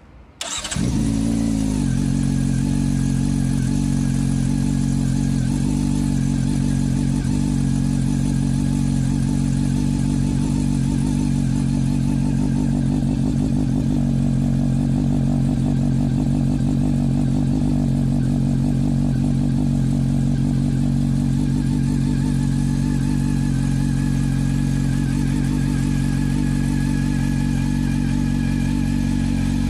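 Honda CB400 Super Four's inline-four engine with a Trickstar aftermarket muffler starting up about half a second in. Its pitch falls briefly after it catches, then it idles steadily.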